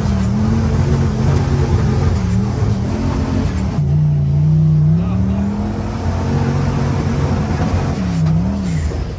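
An off-road vehicle's engine running hard while driving on sand, its pitch rising and falling with the throttle, over a steady rushing noise. The pitch drops for about a second near the middle and climbs back.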